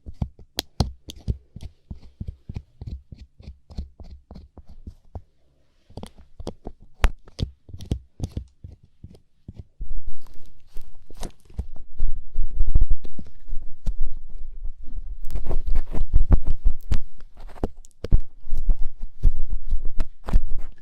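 Light-up ear pick scraping inside an ASMR microphone's ear: quick dense clicks and scratches, turning from about ten seconds in into much louder, deep rubbing thuds against the mic.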